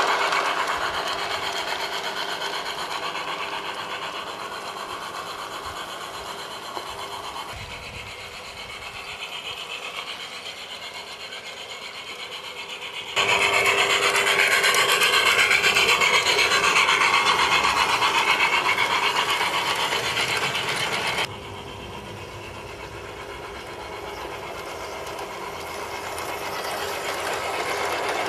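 LGB garden-railway model train running on its track: a steady rasping, rubbing mechanical noise that switches abruptly louder about halfway through and abruptly quieter again a few seconds later.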